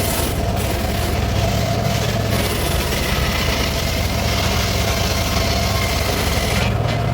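Circular saw running with a steady hum and a steady tone from the spinning blade, under a hiss of the blade cutting teak that stops about six and a half seconds in.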